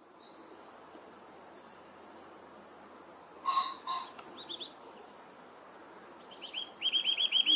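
Songbirds singing and calling over a faint steady hiss: scattered high chirps, a louder call twice about three and a half seconds in, and a fast run of repeated notes near the end.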